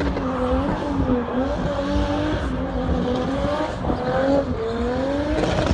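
Drift car engine held at high revs, its pitch wavering up and down as the throttle is worked, over a hiss of tyre noise.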